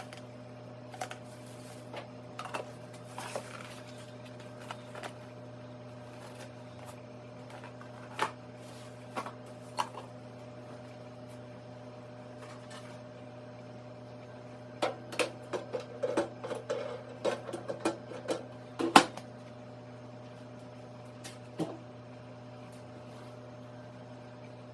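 Samsung MS28J5255GB microwave oven running with a steady hum. Scattered clicks and knocks come over it, busiest about two-thirds of the way in.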